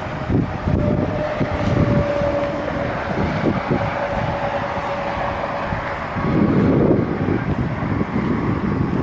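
Truck-mounted crane's engine running, with a steady whine that stops about six seconds in, after which the running gets louder. Wind buffets the microphone throughout.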